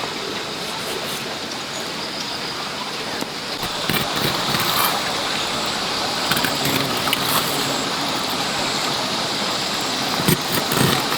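Steady rush of running water, with a few short knocks or splashes about a third of the way in and near the end.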